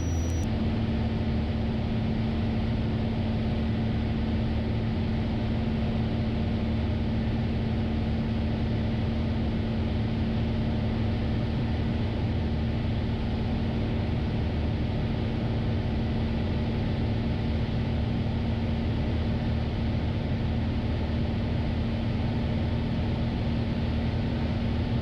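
Piper PA-28's piston engine and propeller droning steadily in cruise flight, heard from inside the cabin as an even hum with a constant low tone.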